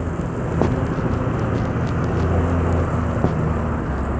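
Steady low rumble of city street traffic, a vehicle engine running close by.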